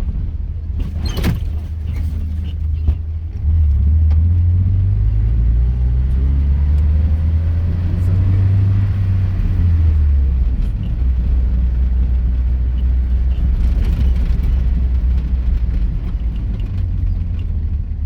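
Vehicle driving off-road, a steady low engine and road rumble that grows louder about three and a half seconds in and eases off later. A single sharp knock sounds about a second in.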